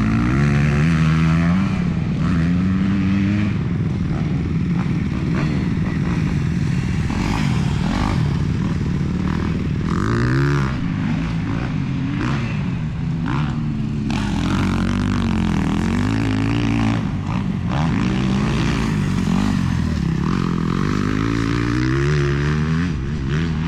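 Motocross dirt bikes running on the track, their engines revving up and dropping off again and again as they accelerate, shift and back off, with more than one bike heard at once.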